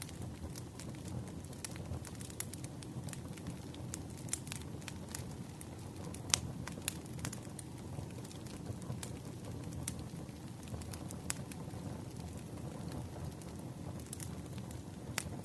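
Campfire burning with a steady low rumble and irregular sharp crackles and pops from the wood, a few louder snaps near the middle.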